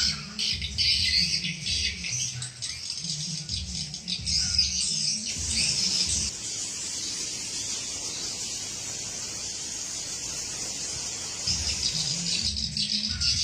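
Recorded swiftlet lure call: dense, rapid high twittering of edible-nest swiftlets over low pulsing thumps. About five seconds in it turns to a steady hissy chatter without the thumps, and the chirps and thumps come back near the end.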